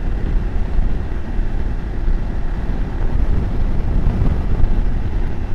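BMW F750GS motorcycle riding at road speed: steady wind rush and engine and road noise, heaviest at the low end.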